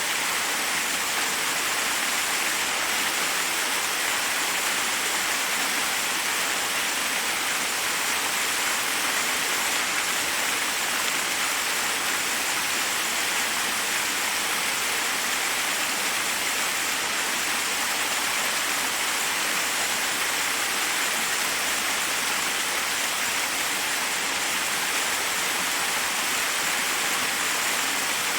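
Steady rush of a forest waterfall, water cascading over rocks in an even, unbroken hiss.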